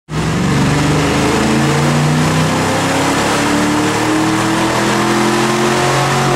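Ford Mustang 5.0-liter V8 breathing through a BBK throttle body and cold air intake, running hard at high revs in a dyno pull, its pitch climbing steadily. The loud engine sound cuts in abruptly at the start.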